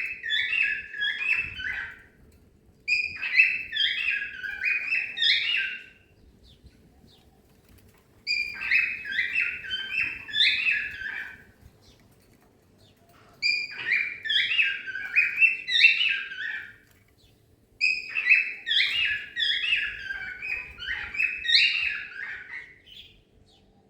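Cockatiel singing, repeating the same warbled whistle phrase five times, each run of quick notes lasting a few seconds with short pauses between.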